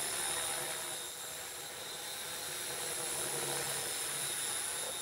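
Radio-controlled model helicopter flying, its electric motor and rotor giving a steady whirring hiss with a faint high whine.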